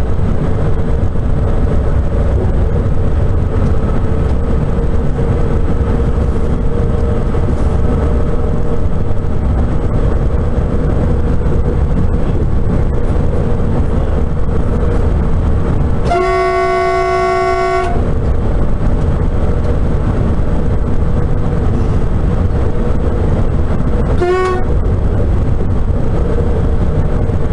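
Cab noise of the Sapsan (Siemens Velaro RUS) electric high-speed train running on the line: a steady low rumble with a constant hum, broken by one long train horn blast of about two seconds around the middle and a short toot near the end.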